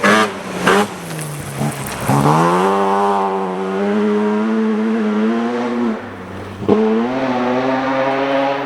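Rally car engine at high revs, accelerating hard through gear changes: the pitch drops at each shift and climbs again. Sharp cracks come in the first second and again about two-thirds of the way through.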